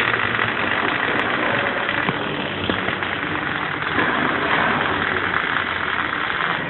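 MIG (gas metal arc) welding arc crackling steadily as a bead is laid.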